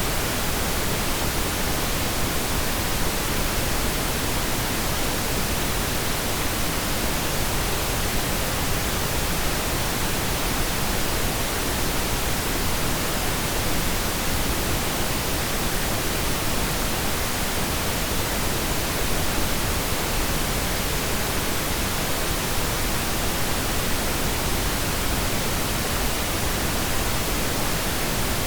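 Steady, unbroken pink noise: an even hiss with no changes.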